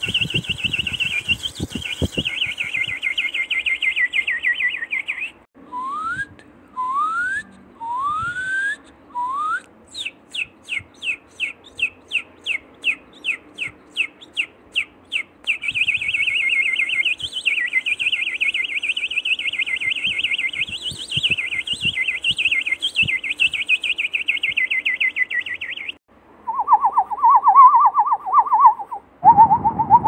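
A sequence of different bird songs and calls: a fast high trill, then four separate rising whistles, a run of quick sharp notes at about five a second, a long warbling trill, and a lower trill near the end.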